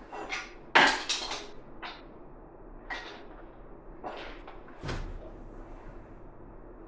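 Workshop handling noises: a series of sharp knocks and clatters of hard parts or tools being set down and moved, loudest about a second in with a second strong knock near the five-second mark.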